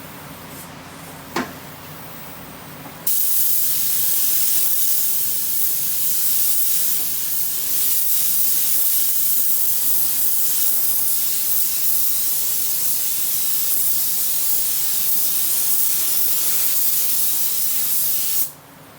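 Small touch-up paint spray gun laying on base coat: a steady, loud hiss of air and atomised paint starts about three seconds in and cuts off abruptly near the end. A single short click comes about a second in.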